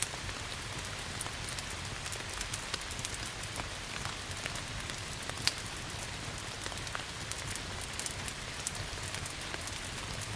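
Steady rain hiss with a wood fire crackling through it: frequent small, sharp pops over an even wash of noise.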